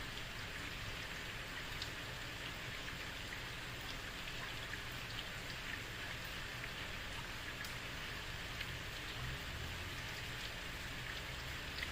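Steady heavy rain falling on a street, an even hiss with scattered sharper drop ticks.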